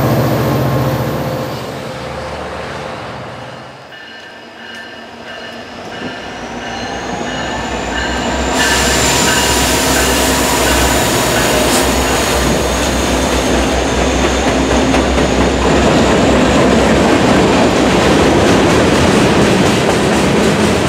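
A train passing close by, its wheels clacking over the rail joints and squealing in a thin, high, wavering tone. The sound fades to a lull about four seconds in, then builds again from about six seconds and stays loud.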